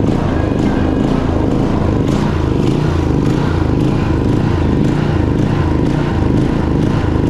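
EENOUR DK3500i inverter generator's petrol engine running steadily, with a pulsing beat low in its note.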